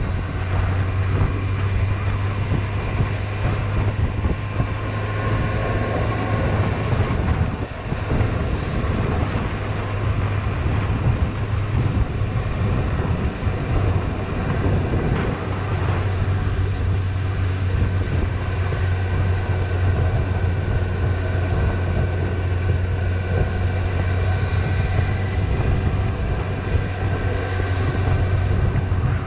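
Suzuki GSX-S750's inline-four engine running steadily at a low, even pace while the motorcycle rides through city streets, heard from a helmet chin-mounted camera.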